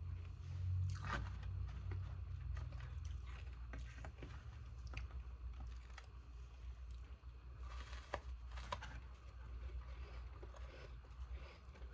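Frozen ice being bitten and chewed close to the microphone: irregular crunches and cracks, over a steady low hum.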